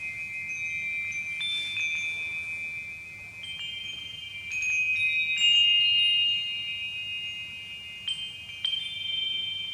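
Chimes ringing: high, bell-like notes struck at irregular moments and left to ring on, overlapping one another, loudest about five to six seconds in.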